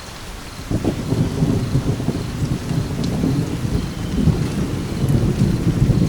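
Steady rain falling, with a long rumble of thunder that breaks in under a second in and rolls on to the end.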